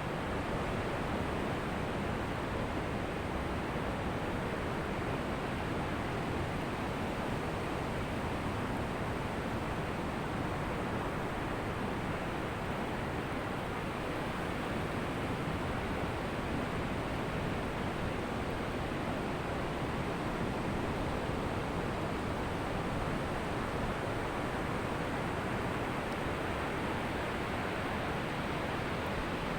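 Ocean surf washing on a beach, a steady, even rush of water with no single wave breaking out above the rest.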